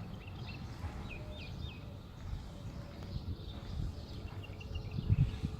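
Small birds chirping in short, quick chirps, in two bouts, over a steady low rumble, with a few dull thumps near the end.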